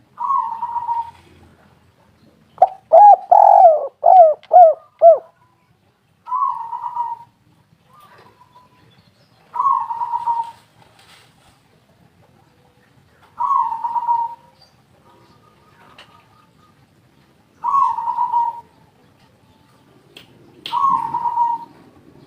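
Spotted dove cooing: a louder phrase of about five coos a few seconds in, and short single coos about every three to four seconds otherwise.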